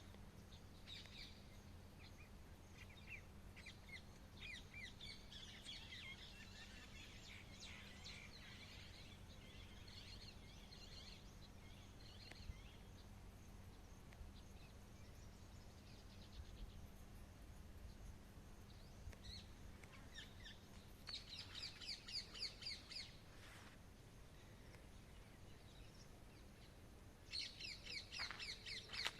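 Wild birds calling and chirping, faint, with scattered high chirps at first and then two louder bursts of quick, rapidly repeated notes, one past the middle and one near the end. A faint steady low hum lies underneath for the first two thirds.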